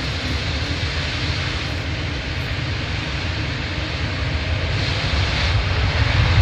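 Engine noise of an airliner at the airport, a steady rumbling noise that grows louder over the last couple of seconds as the aircraft comes closer.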